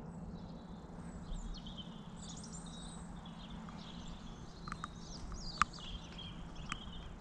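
Small birds chirping and twittering over a faint, steady low hum, with a few sharper, louder chirps in the second half.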